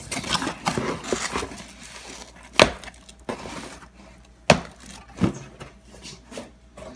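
A cardboard package being opened by hand: rustling and tearing near the start, then a few sharp knocks and cracks as the box is handled.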